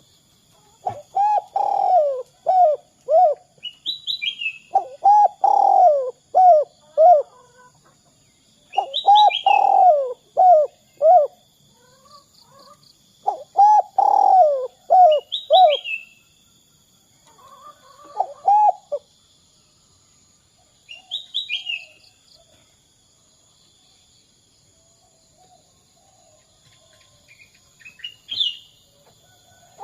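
Spotted dove cooing: five phrases in the first twenty seconds or so, each a longer coo followed by a few short coos, then a long pause. Small birds chirp in short high bursts between phrases, over a faint steady high insect tone.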